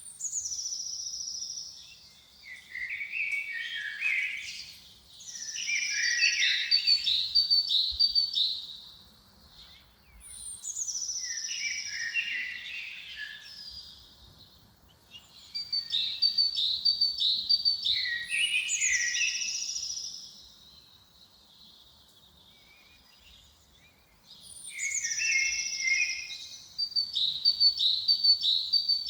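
A songbird singing in repeated phrases every few seconds. Each phrase opens with a high whistle falling in pitch and runs on into a quick series of short notes. Quiet gaps separate the phrases, with the longest pause a little past the middle.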